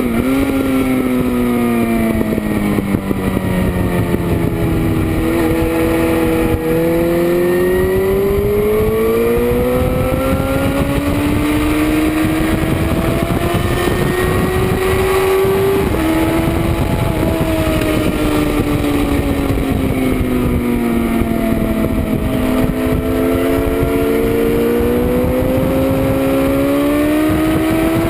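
Motorcycle engine at track speed, heard from a rear-mounted camera over wind noise. The engine pitch slowly falls and then climbs again, drops suddenly about halfway through at a gear change, and then falls and rises once more.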